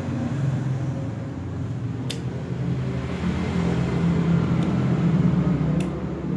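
An engine running steadily, with a low hum that swells a little in the middle. Three short, sharp clicks sound over it.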